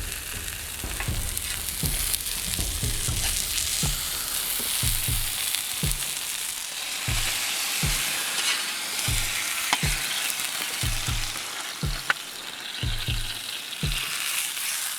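Cornish game hen frying on a hot metal shovel blade over a campfire, with steady sizzling and a sharp crackle about twelve seconds in.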